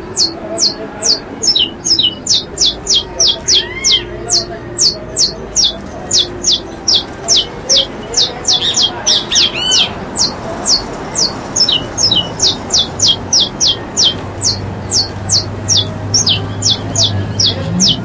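A bird calling a long, steady series of short, high, falling notes, about three a second, with a few other birds calling briefly about four and ten seconds in.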